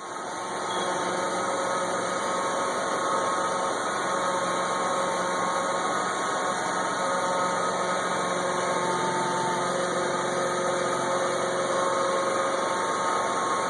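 A machine's motor running steadily with a humming drone, coming up to speed over about the first second.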